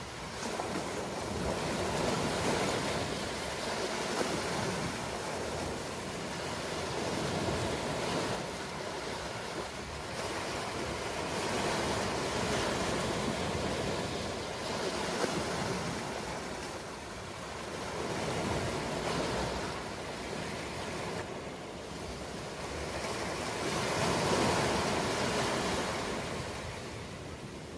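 Ocean waves washing ashore, each surge swelling and falling away over a few seconds in a slow, continuous rhythm.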